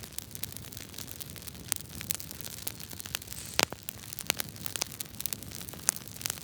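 Wood fire crackling in a fireplace: irregular sharp pops and snaps over the low, steady rumble of the burning logs, with a few louder pops, the strongest about three and a half seconds in.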